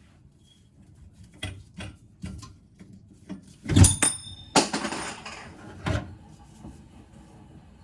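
Handling clatter: a few light knocks, then a loud metallic clank that rings briefly just before four seconds in, followed by a short rustling hiss and one more knock.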